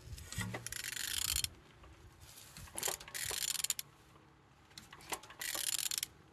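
Ratchet wrench clicking in three bursts of about a second each while the crankshaft of a Toyota 1ZR-FE engine is turned over by hand, a check that the engine rotates freely.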